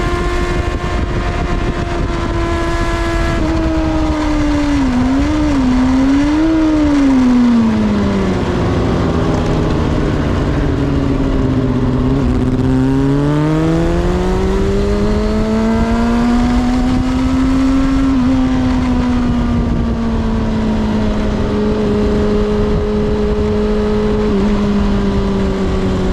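Kawasaki ZXR400 inline-four engine heard onboard at modest, part-throttle revs on the in-lap, with wind rush on the microphone. The engine note wobbles twice about five seconds in, falls away to its lowest near the middle, climbs back to a steady cruise, and dips briefly near the end.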